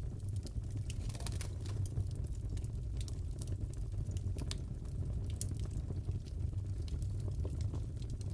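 Fireplace fire crackling: a steady low roar of the flames with many irregular sharp pops and snaps.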